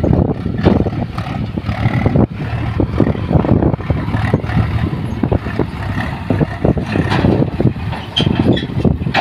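Heavy diesel machinery running steadily, with frequent irregular knocks and clatter over the engine.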